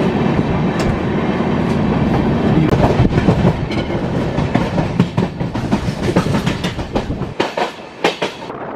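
Passenger train coaches running on the track, heard from aboard: a steady rumble with the wheels clattering over rail joints in quick sharp clicks. Near the end the deep rumble drops away and the clicking carries on.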